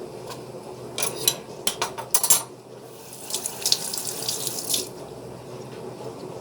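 A few sharp clicks and knocks, then a tap running for about a second and a half before shutting off.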